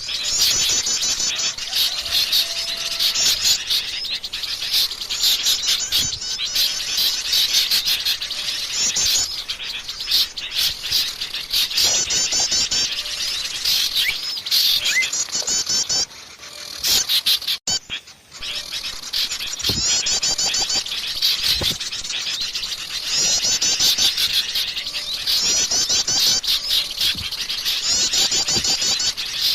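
Dense chorus of many small songbirds chirping and trilling rapidly and without pause, the kind of noisy mixed-bird recording played as a bird lure. It thins out briefly just past the middle, then resumes.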